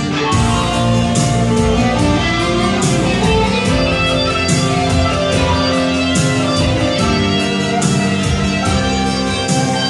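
Band music: electric guitars over drums with cymbal hits, playing a Korean pop-rock song during a rehearsal.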